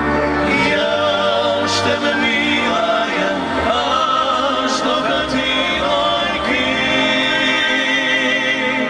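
Music with singing: voices holding long notes with vibrato.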